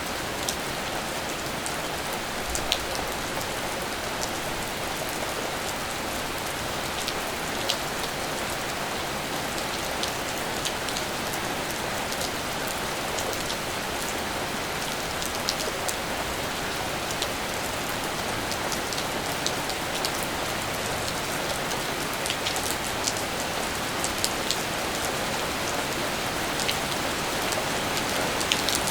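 Steady rain falling, an even hiss with many individual drops ticking sharply on nearby surfaces throughout.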